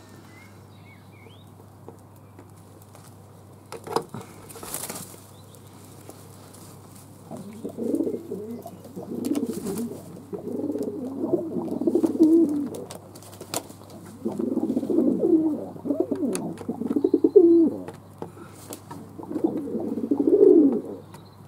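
Fantail pigeons cooing: after a quiet start and a brief sharp sound about four seconds in, a series of low, warbling coos begins about seven seconds in, coming in four phrases of one to three seconds each.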